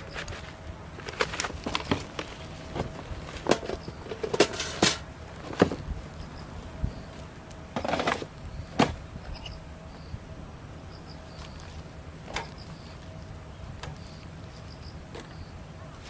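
Irregular knocks, clacks and rustling scrapes as things are handled, busiest in the first nine seconds and only occasional after that, with faint short high chirps in the background.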